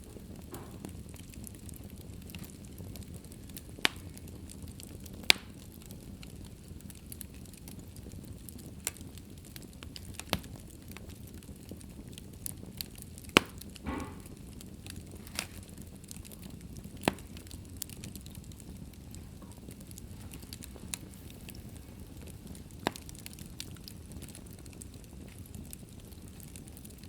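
Wood fire burning in a fireplace: a steady low rumble of flames with irregular sharp pops and crackles, about a dozen, and a brief hiss a little after the middle.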